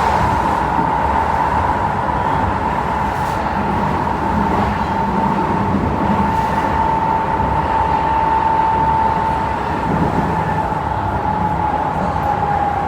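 Interior running noise of a Keisei 3000-series EMU with a Toyo IGBT VVVF inverter and TD-drive motors, carrying a steady high-pitched whine that drops slightly in pitch near the end. The whine is the abnormal noise this set was making; its cause is unknown.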